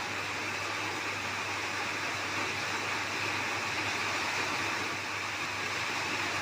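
Summer rain falling steadily, an even, unbroken hiss.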